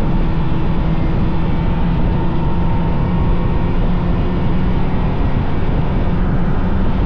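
Vintage snowmobile's two-stroke engine running steadily at trail speed, with the drone holding even throughout.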